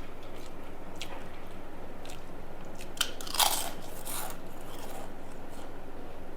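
Person biting into crisp fried papad: a few small crackles, then a loud crunch about three and a half seconds in, followed by quieter crunching and chewing.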